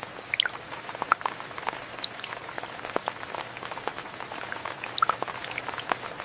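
Steady rain, with large drops landing close by as irregular short plinks, several a second.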